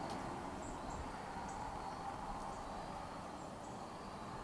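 Quiet outdoor evening ambience: a faint steady hiss with short, high chirps repeating about once a second.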